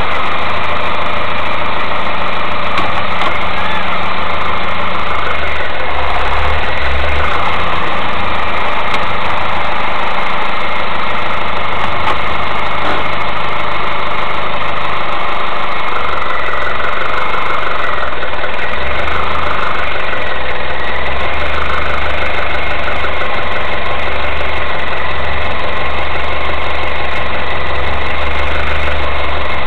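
Mazda3 engine running steadily at idle.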